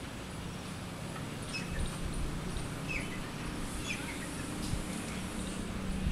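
A few short, faint bird chirps, some falling in pitch, around the middle, over a steady low hum.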